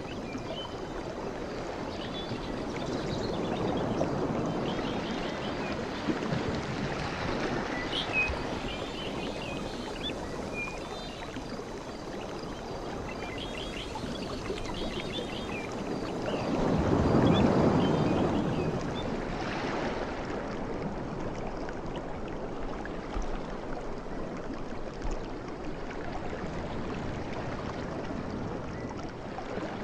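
Ocean waves washing in, rising and falling in slow swells, the loudest about halfway through, with small birds chirping in short phrases through the first half.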